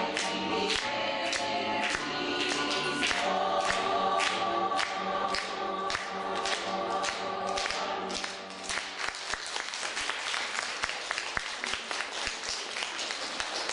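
Choir singing with a steady rhythmic accompaniment, the song ending about eight seconds in. The audience then applauds.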